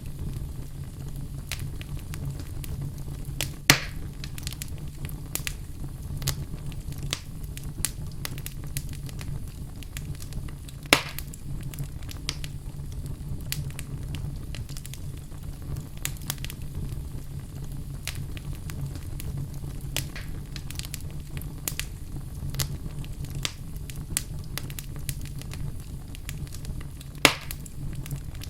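Wood fire burning in a fireplace: a steady low rumble of flames with frequent small crackles and three louder pops, about 4, 11 and 27 seconds in.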